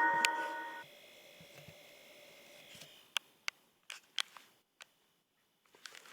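A phone's text-message alert tone, a loud chime of several notes that ends about a second in. After it, scattered sharp clicks and taps.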